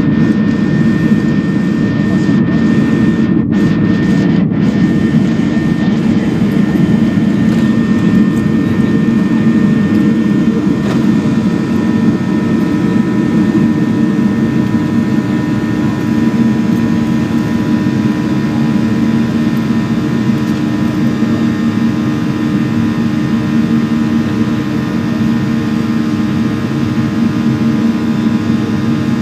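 Boeing 737-800's CFM56-7B turbofan jet engines running steadily: a loud, even rumble with a steady whine above it.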